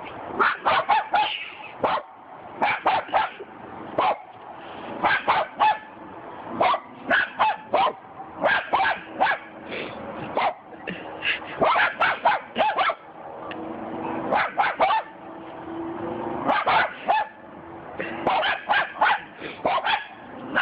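A dog barking repeatedly in quick volleys of two to five barks, with short pauses between them.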